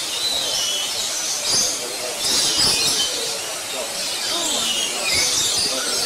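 Birds calling and chattering with high, wavering notes in clusters every second or two, over a steady hiss.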